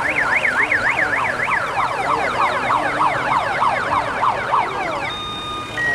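Electronic siren sounding a fast rising-and-falling yelp, about three sweeps a second, with a second sweeping pattern overlapping it partway through. It cuts off about five seconds in, leaving a few steady electronic tones.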